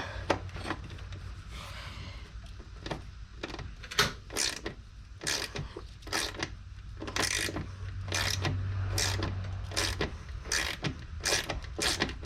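Socket ratchet wrench clicking in short, irregular runs of strokes as a bolt is worked.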